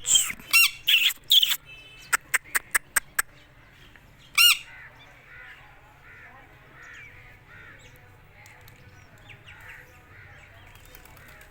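Parrot squawking: several loud harsh screeches in the first second and a half, a quick run of short sharp notes, then one more screech about four and a half seconds in, with faint bird chirps behind.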